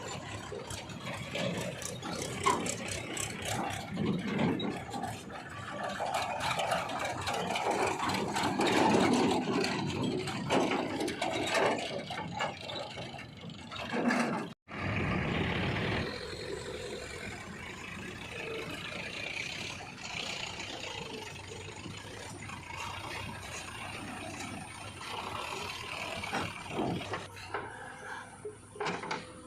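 Diesel engine of a backhoe loader running while it digs and loads mud, with rattling and clanking. The sound cuts out abruptly about halfway through and resumes as a steadier, quieter engine run.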